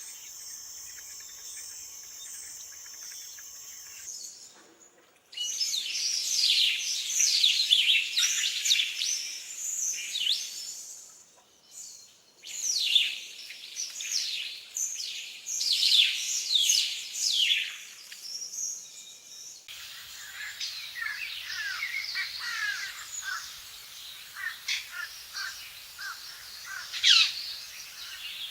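Rainforest birds chirping and calling in dense runs of quick, falling whistles. Before the calls begin there is a steady high drone. The background changes abruptly about four, twelve and twenty seconds in.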